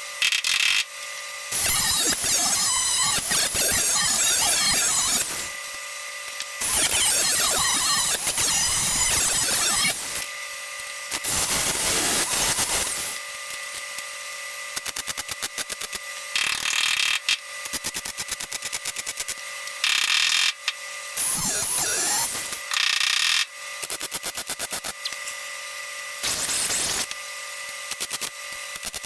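Power-tool work on a car's sheet-metal patch panel. There are three loud bursts of a few seconds each, then shorter bursts broken up by runs of rapid short pulses.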